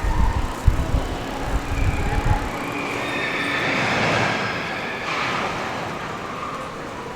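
City street ambience with a vehicle passing: a rushing noise builds, peaks about four seconds in and fades away. Low rumbling thumps come first, about the first two seconds.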